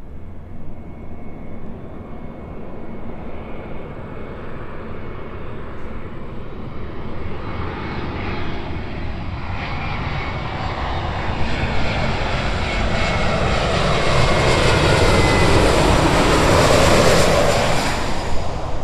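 Airbus A320neo airliner's Pratt & Whitney PW1100G geared turbofan engines, a rushing jet roar with a thin whine that grows steadily louder as the aircraft draws near, then eases near the end.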